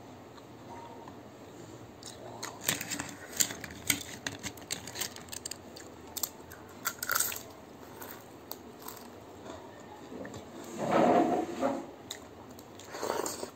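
Close-up eating sounds: a person chewing mouthfuls of rice and soupy leafy-greens curry (saag ko jhol), with wet squishes and smacking clicks as the food is mixed and eaten by hand. A louder, longer wet sound comes about eleven seconds in.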